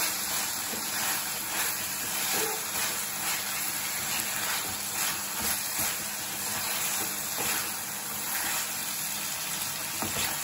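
Pepper chicken frying in a pan with dried red chillies, a steady hiss of sizzling oil and masala, with occasional light scrapes of a wooden spatula as it is stirred.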